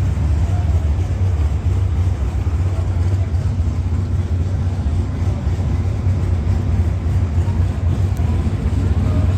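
Steady low rumble of car engines running at a car show.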